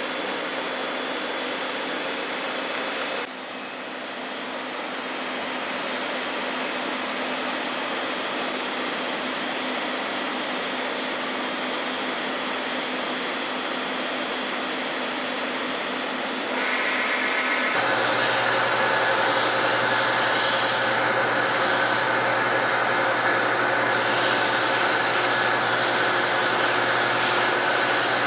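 Steady machine hum and whoosh with a few steady tones. It dips briefly about three seconds in, then grows louder and brighter, with a low hum, about eighteen seconds in.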